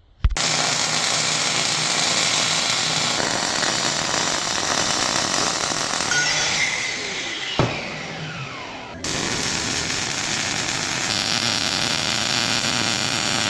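Steady, harsh metalworking noise from power tools, split into several clips that cut off abruptly, with a sharp knock and a falling whine about halfway through.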